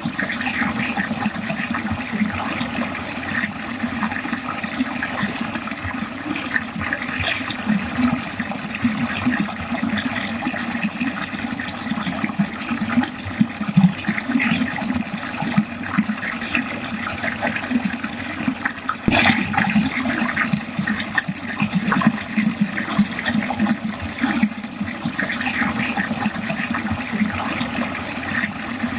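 Water running steadily down a drain, a continuous gurgling flow with small splashes, and a brief catch in the flow about two-thirds of the way through.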